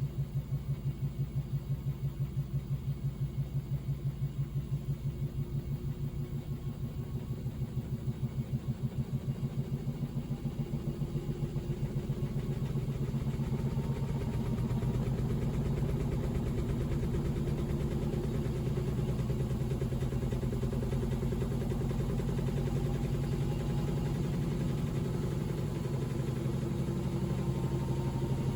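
Panasonic NA-VX9300L drum washing machine speeding up into a spin. It gives a rhythmic knock with each turn of the drum, getting faster until the knocks blur into a steady hum about halfway through, while a faint motor whine rises. This is the clattering spin noise the owner traces to broken dampers.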